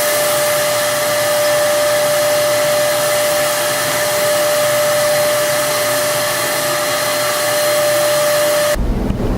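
Turbine-driven HVLP spray gun running steadily while spraying Plasti Dip, a constant whirring with a steady whine. It cuts off suddenly near the end, leaving wind noise on the microphone.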